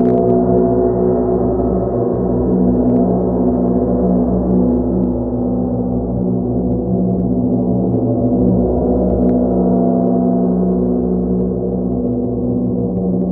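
Sustained sound-healing drone of monochord and gong, a dense bed of steady overlapping overtones that rings on without a break.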